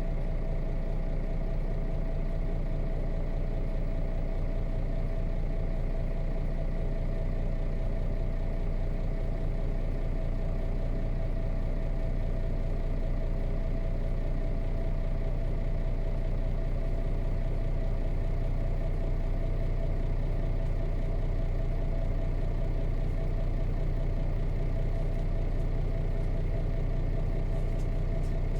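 Nissan Diesel KC-RM211GSN bus's FE6 straight-six diesel engine running steadily at an unchanging speed, heard from inside the passenger cabin, with a steady whine on top of the low engine tone.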